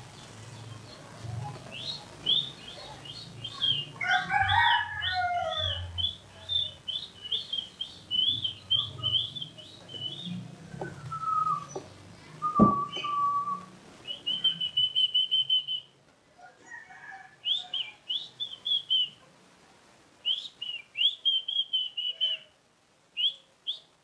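Birds chirping in runs of quick, high repeated phrases, with a longer, lower call about four seconds in. A faint low hum underneath stops about sixteen seconds in.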